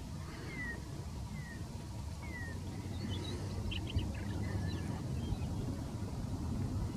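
A bird calling over a steady low rumble: three short falling whistled notes about a second apart, then a brief cluster of higher chirps midway through.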